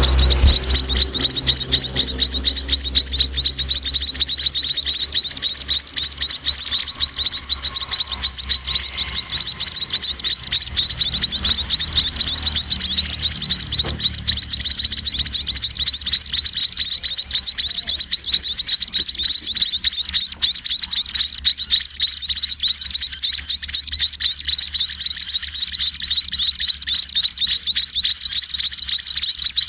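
Baby burung pipit chicks giving rapid, high-pitched begging chirps, many a second without a break, as they call to be fed by the parent.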